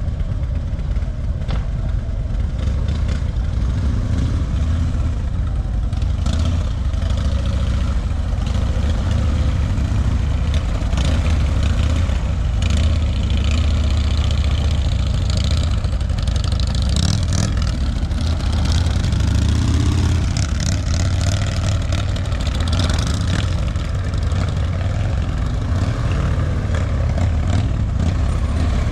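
Motorcycle engine running at low speed, its revs rising and falling a little as the throttle is worked.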